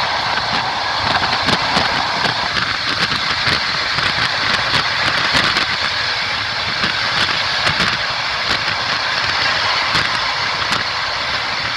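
Moving train heard from its window: a steady rushing rolling noise of wheels on the rails, with short sharp clicks scattered through it as the wheels clack over the track.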